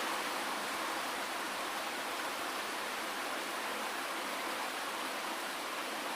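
Steady rain, an even hiss with no separate drops, thunder or low rumble standing out.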